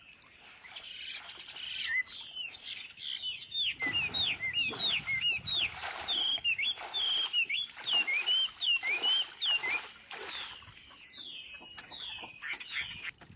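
Birds chirping in a quick, busy run of short high chirps, several a second, that fades near the end.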